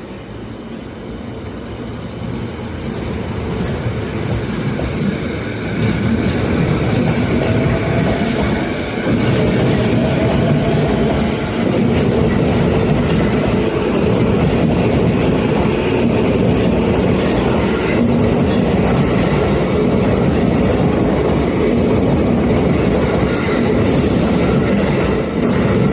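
A 10-car JR East E233 series 0 electric commuter train approaching and running past on the rails. It grows louder over the first nine seconds or so, stays loud and steady, then falls off just before the end.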